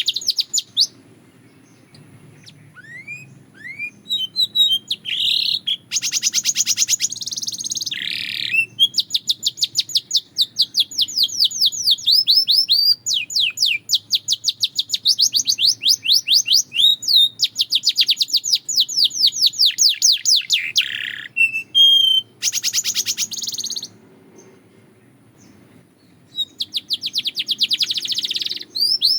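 Canary singing: long, rapid trills of repeated high notes, with a few rising whistled notes, broken by short pauses about two seconds in and again near the end.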